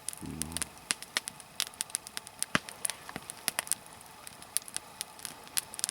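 Nodya log fire of spruce and fir crackling, with many sharp, irregular pops and snaps as the resin pockets in the heated wood burst.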